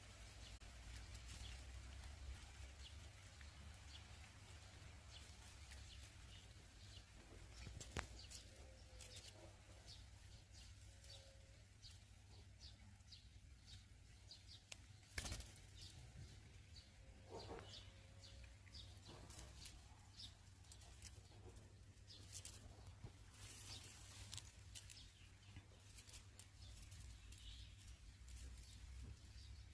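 Faint, scattered high chirps and ticks from birds over a steady low rumble, with two sharp clicks: one about eight seconds in and a louder one about fifteen seconds in.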